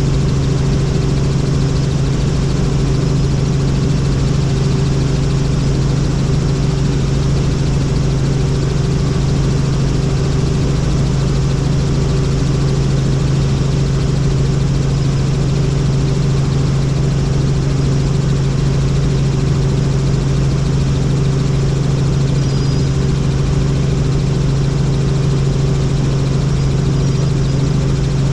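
Helicopter running, a loud steady drone with a constant low hum that does not change.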